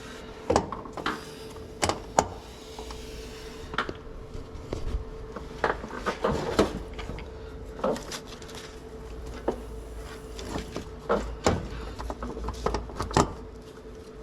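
Scattered clunks, knocks and clicks of metal against metal as a starter motor is worked loose and manoeuvred out of a cramped engine bay, over a faint steady hum.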